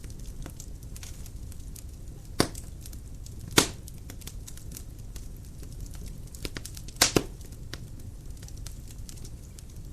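Dry firewood burning in a fireplace, crackling with many small ticks over a steady low noise from the flames. Sharp pops stand out about two and a half seconds in and three and a half seconds in, with a quick double pop about seven seconds in.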